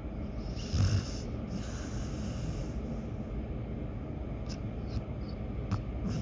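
Dog snoring in its sleep: one loud snore about a second in, followed by a softer breath out, then quieter breathing with a couple of faint clicks, over a steady low background rumble.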